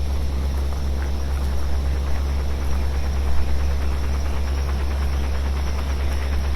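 Steady synthesized brown and pink noise from a modular-synth noise generator, with a strong low hum under an even hiss and a fine, fast flutter in the middle.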